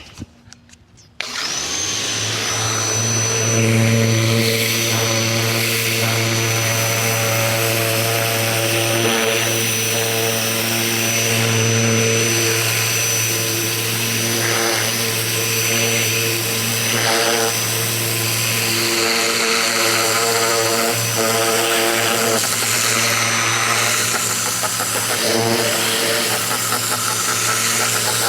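Ryobi 2000 PSI electric pressure washer starting up about a second in, then running steadily with a low hum, a thin high whine and the hiss of its water jet.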